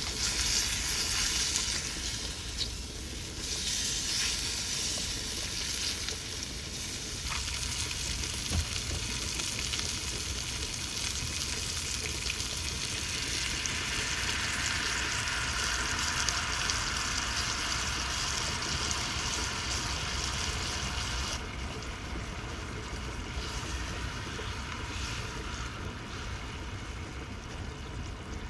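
Pork steak frying in a pan, a steady sizzle.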